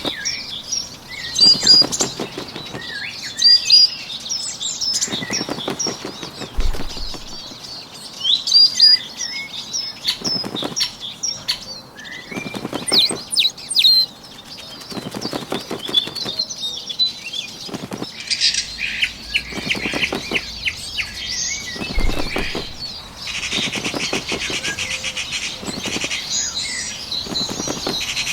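Birdsong ambience of short high chirps and twitters, with bursts of bird wing-flapping recurring every couple of seconds. Near the end a dense, fast, even insect trill joins in.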